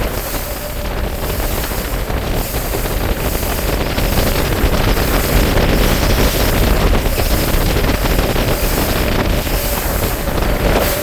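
Bass boat's motor running steadily with one constant tone, wind buffeting the microphone and water rushing past the hull.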